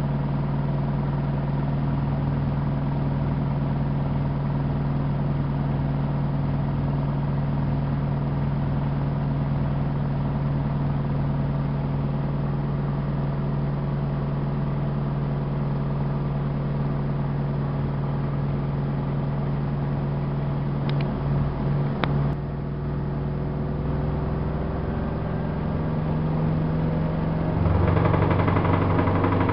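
Miele Softtronic W3657 front-loading washing machine spinning, its motor giving a steady hum with a whine. About three-quarters of the way through there are a few clicks and the pitch drops. Near the end it gets louder at a new, lower pitch as the drum speed changes.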